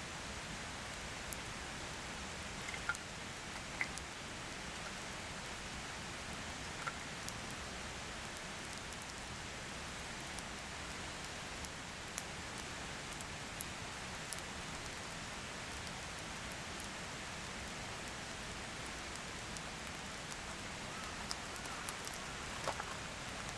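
Steady rain hiss with scattered small ticks of drops.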